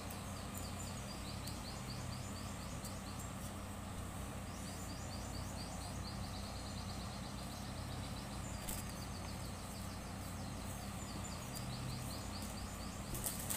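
A low steady hum with small birds chirping in rapid, repeated trills throughout, and a faint click or two.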